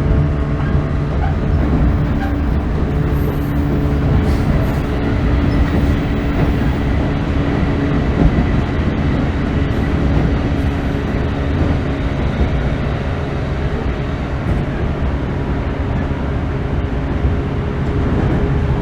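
JR 415 series 1500-subseries electric train running along the line, heard from inside the passenger car: a steady rumble of wheels on rail with a constant low hum.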